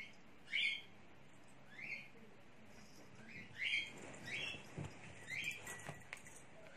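A bird chirping again and again: short, rising chirps at uneven gaps of about a second.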